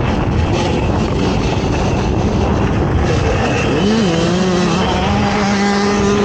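ATV engine running hard during an off-road race, with a rushing noise of wind and track over it. About four seconds in, the engine note dips and then holds steady.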